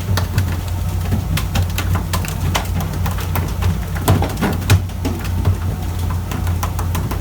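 A fishing boat's engine running with a steady low hum, with many short sharp clicks and splashy ticks over it and a few brief higher sounds about four to five seconds in.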